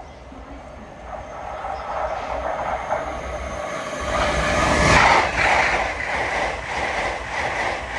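LNER Azuma passenger train passing at speed: its rumble builds to a peak about five seconds in, followed by a regular clatter of wheels over the rails.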